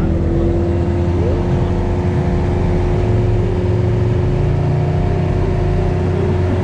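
Competition car audio system playing loud, steady deep bass during SPL judging, with a steady higher hum over it.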